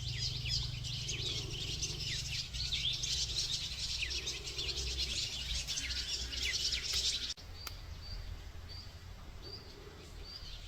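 Many small birds chirping at once, busy and overlapping. About seven seconds in there is a sudden cut, after which a single bird repeats a short high call over and over.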